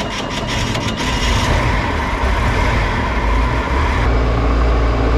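Motorboat engine running under way, a steady low rumble under a wash of noise that gets louder about a second in and then holds steady.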